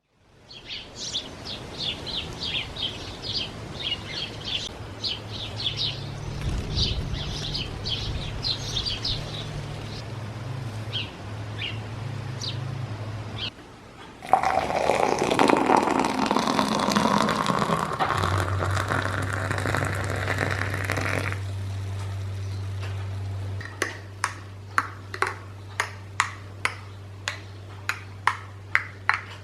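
Small birds chirping for the first dozen seconds, then a loud rushing sound like running water for about seven seconds, then a steady low hum with a quick series of light clinks, about two a second.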